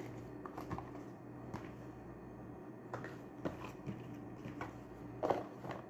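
Scattered light clicks and taps of small objects being handled, with a brief rustle about five seconds in, over a faint steady room hum.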